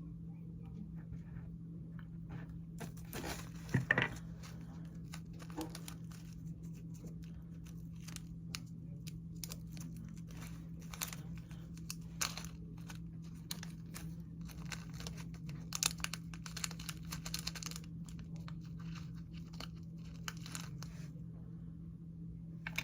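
Plastic packaging crinkling and tearing under the hands, a run of small crackles and rustles, louder about four seconds in and again around sixteen to eighteen seconds. A low steady hum runs underneath.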